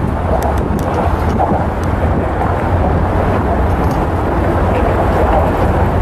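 Steady rumble of a passing train, with wind buffeting the microphone and a few faint clicks.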